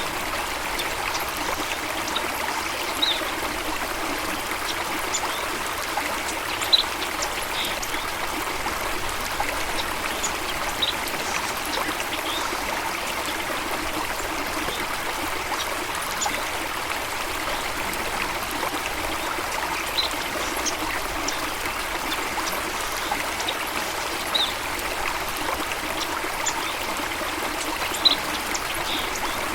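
Running water flowing steadily, with a brief, sharp, high sound every few seconds.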